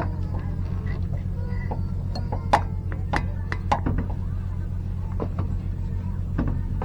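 Scattered sharp metallic clinks of tools and parts being handled, about half a dozen spread irregularly, over a steady low hum.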